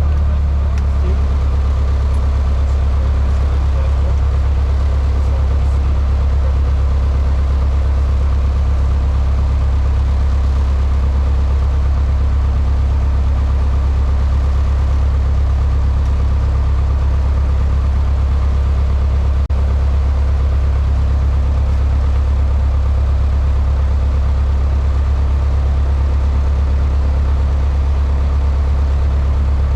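Cessna 152's four-cylinder Lycoming engine and propeller running at a constant setting, heard as a steady, loud low drone inside the cabin.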